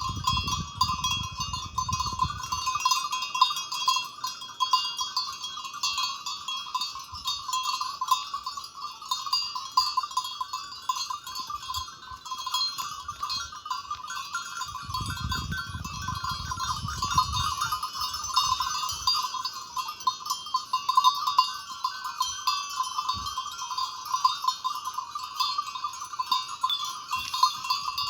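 A dense, steady chorus of many animal calls, in a middle-pitched band and a higher band, with two brief low rumbles, one at the start and one about halfway through.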